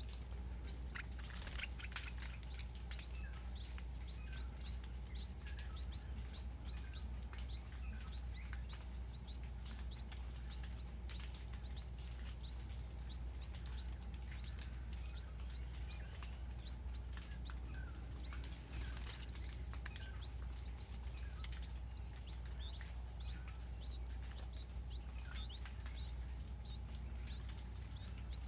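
A bird chirping over and over, short high falling notes about three a second, with no break, over a faint steady hum.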